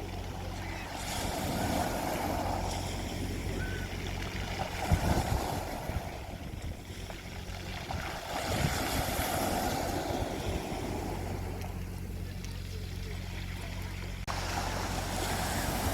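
Sea waves washing onto a beach, swelling twice, over a steady low engine-like hum.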